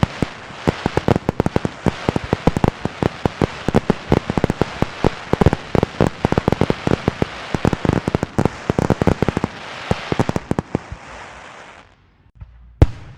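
Fireworks and firecrackers: a dense, irregular run of sharp pops and cracks over a steady hiss, which dies away about twelve seconds in. One loud bang follows near the end.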